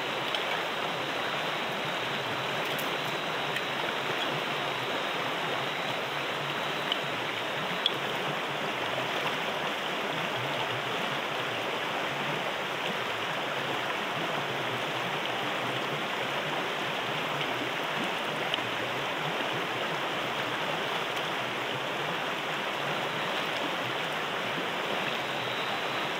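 Steady rush of water, even and unbroken, with a couple of faint ticks about seven and eight seconds in.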